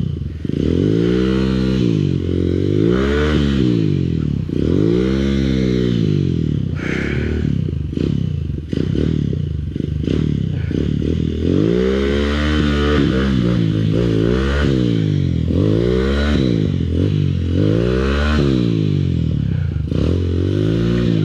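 Honda CRF230F's air-cooled single-cylinder four-stroke engine being revved over and over, its pitch rising and falling again about every two seconds.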